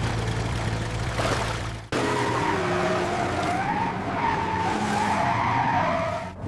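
Cartoon action sound effects: a steady low rumble that cuts off about two seconds in, then a long wavering high screech.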